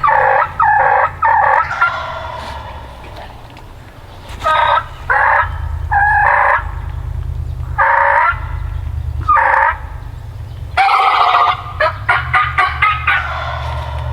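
Wild turkeys gobbling and calling: three loud calls at the start, single calls spaced through the middle, and a fast run of short notes about twelve seconds in.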